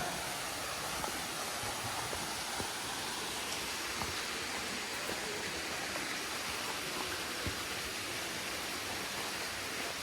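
Steady rush of falling and running water, an even hiss with a few faint ticks over it.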